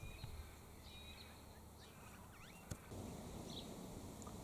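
Faint birdsong: scattered short chirps and whistles from small birds, with one sharp click about halfway through and a soft rustling haze in the last second or so.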